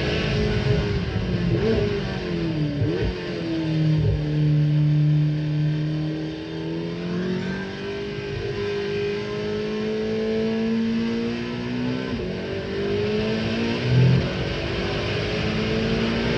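2025 Corvette ZR1's twin-turbocharged 5.5-litre flat-plane-crank V8 being driven hard around a tight track. The engine note climbs and drops repeatedly as the car accelerates, lifts and changes gear, with a short louder burst about two seconds before the end.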